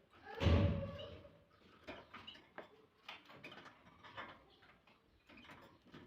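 A dull thump about half a second in, then scattered light taps and brief high chirps from a pet canary.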